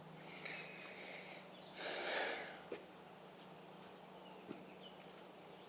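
Quiet outdoor ambience with faint short chirps from birds or insects. A soft rush of noise swells and fades about two seconds in, and there are a couple of tiny clicks later.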